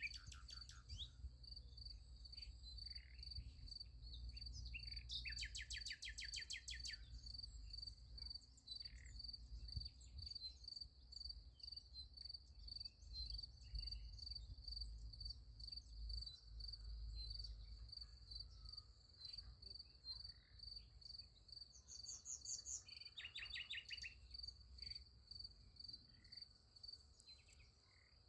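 A cricket chirping steadily in an even, regular rhythm, with a bird giving a rapid trill twice, about five seconds in and again a little past twenty seconds, over a faint low rumble.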